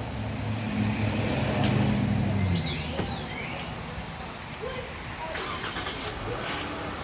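A motor vehicle's engine runs with a steady low hum that drops away about two and a half seconds in. A short high chirp and a brief hiss follow later.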